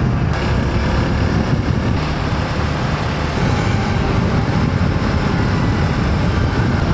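Hero Xpulse 200 4V's single-cylinder engine running steadily while riding, mixed with steady wind and road noise on the microphone.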